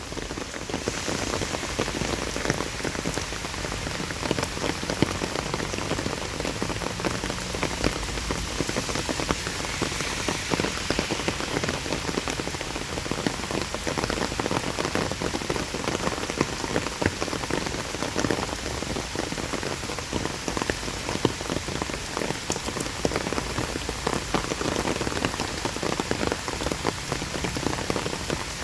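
Steady rain falling, with many close raindrops tapping sharply on surfaces.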